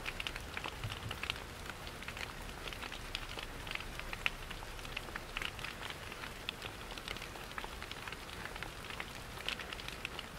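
Rain falling steadily: a soft hiss with many separate drops ticking on a surface.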